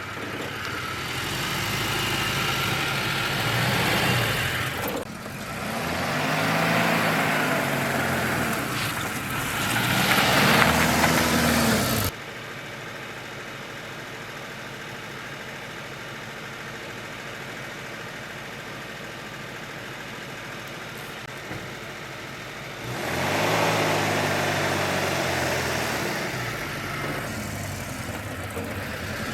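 A vehicle engine running, its pitch rising and falling as it speeds up and slows, louder from about five to twelve seconds in and again near the end. About twelve seconds in the sound drops suddenly to a quieter steady hum.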